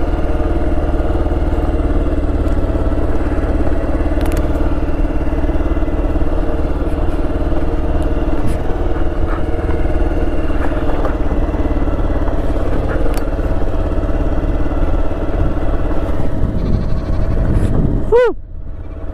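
Motorcycle engine running steadily as the bike rides along. Just before the end the sound sweeps down and drops away sharply.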